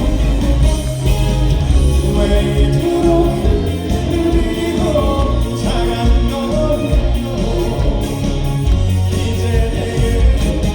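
Live band music with singing, a loud amplified performance with a strong bass line.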